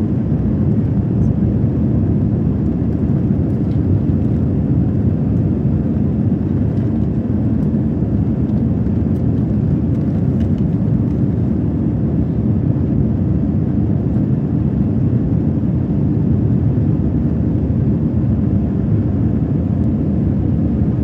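Steady low rumble inside the cabin of a Delta Airbus A321 in flight: engine and airflow noise, even and unchanging.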